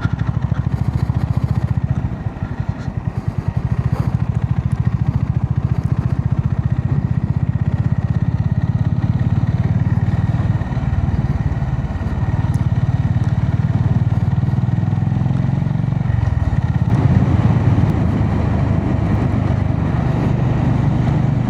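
Honda GB350S's air-cooled single-cylinder engine running under way, heard from a mic inside the rider's helmet. It eases off briefly about two seconds in and runs louder from about seventeen seconds.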